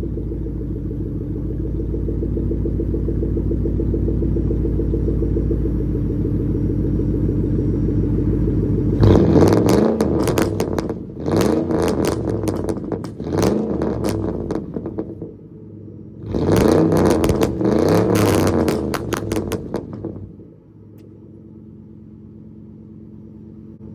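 Mercury Grand Marquis's 4.6-litre V8 idling steadily through a loud exhaust, then revved in several sharp blips from about nine seconds in. It settles back to a quieter idle around twenty seconds in.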